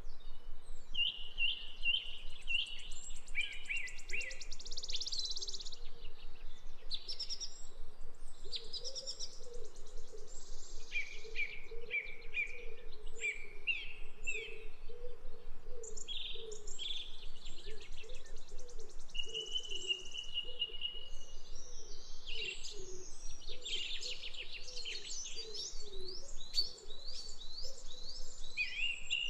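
Several birds chirping and singing throughout, in quick series of high chirps and trills one after another, over a lower, wavering sound that repeats steadily underneath.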